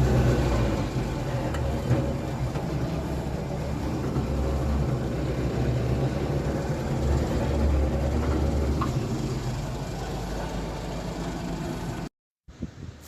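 An engine running steadily at idle, with a strong low rumble; it cuts off abruptly about twelve seconds in.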